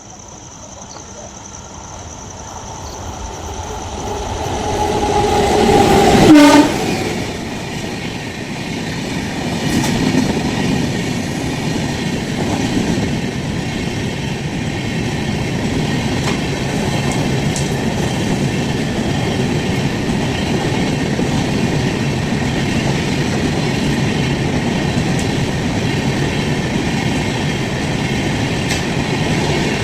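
Express train approaching and passing at speed. Its horn sounds as it nears and drops in pitch as the front passes about six seconds in, the loudest moment. A steady rumble and clickety-clack of the coaches running by follows.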